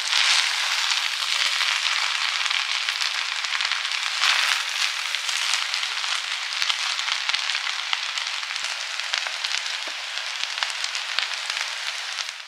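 Fried rice with vegetables sizzling in a large hot pan while it is stirred and turned with wooden spatulas: a steady frying hiss that swells as the rice is turned, once near the start and again about four seconds in, easing slightly toward the end.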